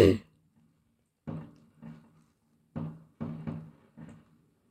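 Fireworks going off: one loud bang at the start, then a string of about six fainter bangs and pops over the next few seconds.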